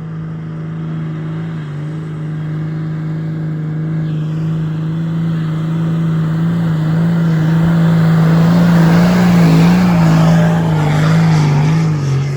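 A 4WD's engine working hard under load as it climbs a sand dune. It holds a steady pitch and grows louder through the middle, then the revs fall away near the end.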